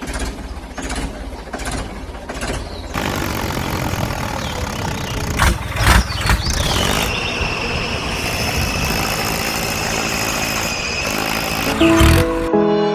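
A small motor running steadily, with a few knocks about five to six seconds in and a steady high whine from about seven seconds in; music comes in near the end.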